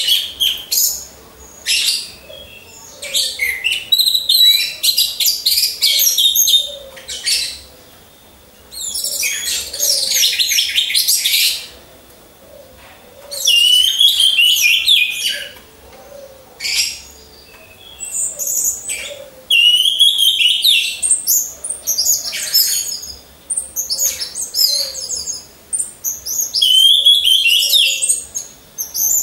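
Orange-headed thrushes singing loudly in bursts of rapid, varied high-pitched phrases, each up to a few seconds long, with short pauses between them.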